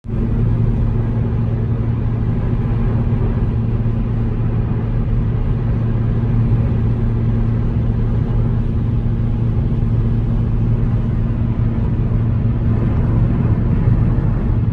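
Straight-piped Hyundai Genesis Coupe 3.8-litre V6 exhaust running at a steady, unchanging pitch: a deep, constant tone with no revving.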